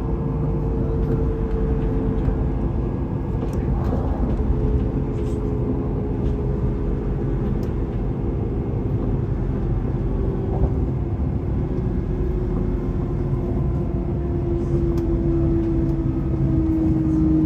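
Vy electric passenger train running: a steady rumble of the ride with a motor whine that slowly drops in pitch over the last few seconds, and a few faint clicks.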